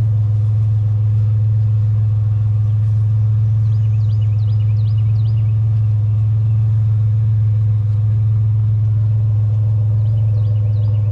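Truck engine running with a steady, unchanging low hum.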